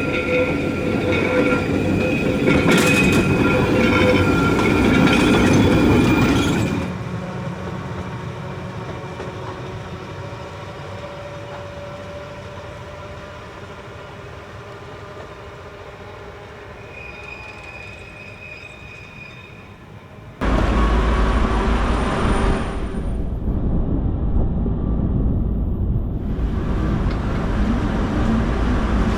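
Trieste–Opicina tram running on its rails, with steady high wheel squeal over the running noise for the first several seconds. The sound drops abruptly about seven seconds in to a quieter rumble that slowly fades, and a loud low rumble comes in suddenly about twenty seconds in.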